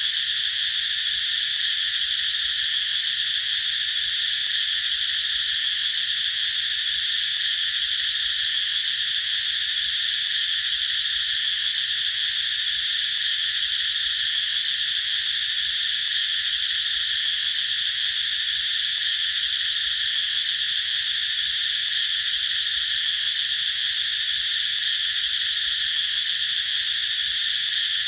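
Cicadas singing in chorus: a continuous high-pitched buzzing drone that holds steady without a break.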